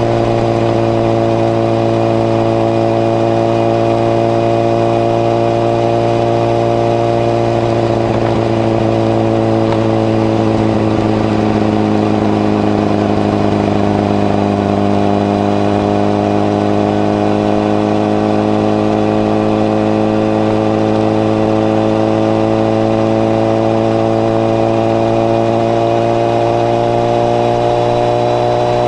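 Honda CBR1000RR (SC57) inline-four engine running steadily under way, heard through a modified Moriwaki exhaust with its baffle fitted. The engine pitch sags gently about halfway through and climbs back toward the end.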